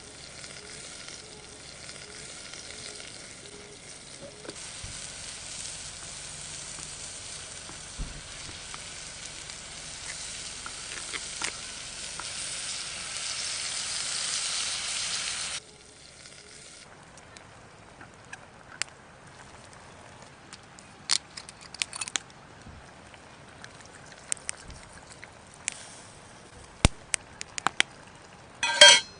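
Meat sizzling on a hot iron griddle, the hiss growing steadily louder, then cutting off suddenly about halfway through. Scattered light clicks and taps follow, with a short loud rattle near the end.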